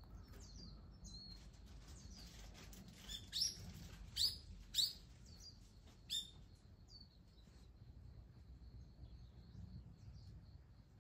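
Birds calling: a run of short, high chirps at the start, then four loud, sharp calls that sweep down in pitch between about three and six seconds in, and faint high twittering afterwards.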